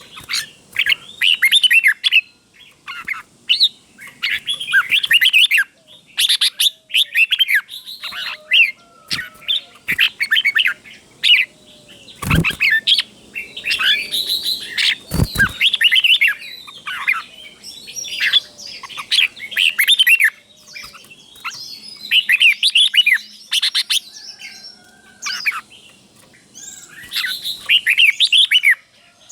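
Red-whiskered bulbul singing: bright, quick whistled phrases repeated over and over with short gaps, the doubled phrases that bulbul keepers call a 'double' song. Two sharp knocks come a few seconds apart around the middle.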